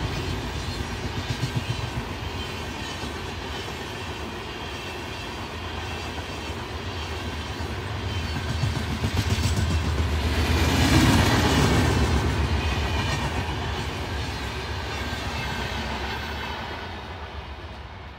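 Indian Railways express train of LHB coaches passing at speed: a steady rush of wheels on rail with a rhythmic clatter over the joints. It builds to its loudest about eleven seconds in, then fades as the train draws away.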